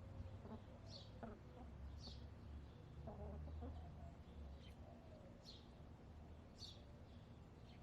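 Backyard hens making soft, low clucking murmurs, strongest a few seconds in, while a wild songbird gives short high chirps about once a second. Faint throughout.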